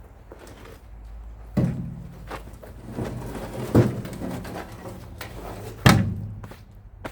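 Heavy parts being handled and set down during a truck teardown: three loud thuds about two seconds apart, each with a short low ring, and lighter knocks between.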